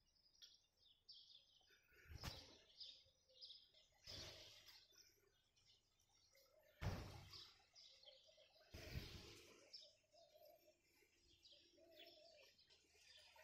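Small birds chirping faintly and repeatedly, with four soft thumps about two seconds apart.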